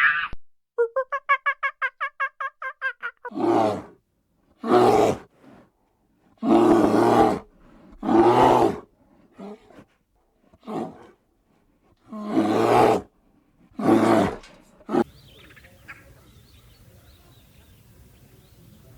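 Animal calls: first a rapid string of about a dozen short, pitched pulses lasting a couple of seconds, then a series of about eight loud, harsh, roaring calls, each under a second long and a second or two apart.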